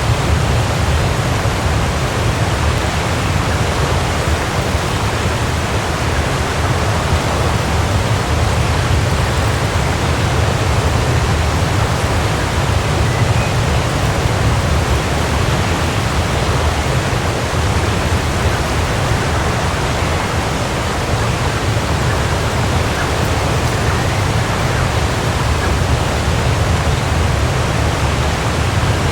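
Waterfall: a steady, even rush of falling water with a deep low rumble.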